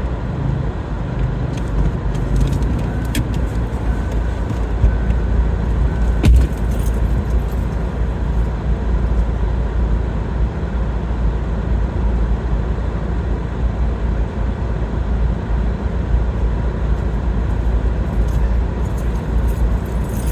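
Car cabin noise while driving: a steady low engine and road rumble, with one sharp click about six seconds in.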